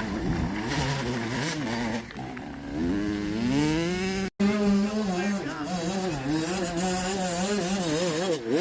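Dirt bike engines running and revving, pitch climbing and then wavering rapidly up and down with the throttle. The sound cuts out for an instant about four seconds in.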